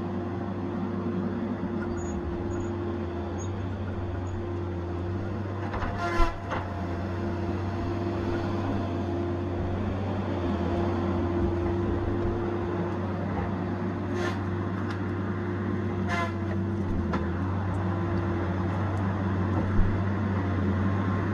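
Tigercat 870C feller buncher's diesel engine running steadily with a low even hum. Short high-pitched squeals cut in briefly about six, fourteen and sixteen seconds in, the first with a sharp knock.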